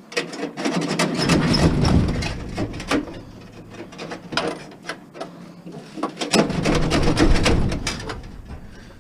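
Heavy copper wire being tugged and worked loose from a scrap appliance: metal clicking, knocking and scraping with rumbling handling noise, in two louder spells of a couple of seconds each.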